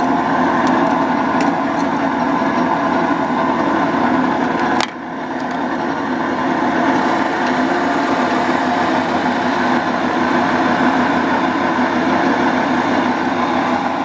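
Old Aronson welding positioner running: its electric drive motor and mechanical Graham variable-speed transmission turning the faceplate with a steady whirring hum. A sharp click and a brief drop in the sound come about five seconds in.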